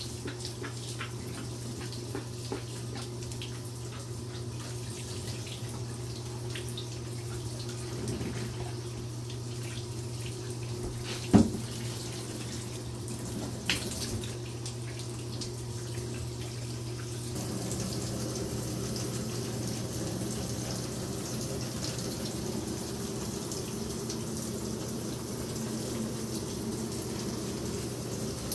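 Tap water running steadily into a bathtub, over a steady low hum, growing fuller and louder about two-thirds of the way through. Two sharp knocks cut through it, the first and loudest about 11 seconds in and a smaller one a couple of seconds later.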